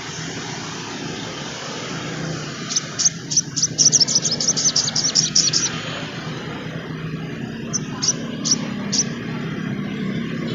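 Sogon trotol (sogok ontong) singing: a fast, chattering run of sharp high chirps lasting about three seconds, then a few single chirps, over a steady low background hum.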